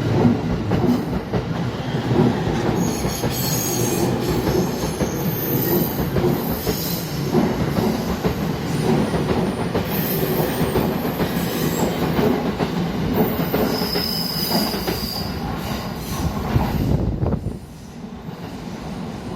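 Train on the Utsunomiya Line running past over a level crossing: a steady rumble and clatter of wheels on rail, with high-pitched wheel squeals from about three seconds in. The noise drops suddenly near the end.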